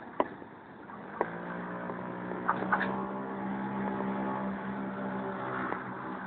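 Two sharp knocks, then an engine running at a steady, even pitch that sets in about a second in, with a few more clicks partway through.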